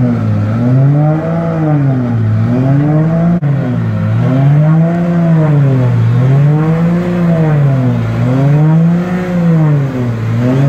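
A drift car's engine revved up and down over and over in an even rhythm, rising and falling about every second and a half, with a brief click about three seconds in.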